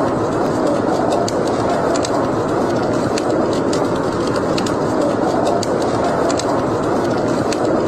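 Wood fire burning in a fireplace: a steady rushing of the flames with frequent sharp crackles and pops.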